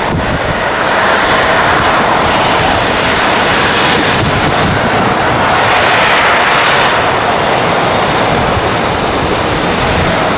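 Airliner engines running loud and steady, a dense rush of noise with no distinct tone.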